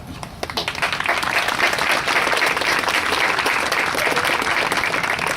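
Crowd applauding and clapping for an introduction. The clapping builds about half a second in and then holds steady.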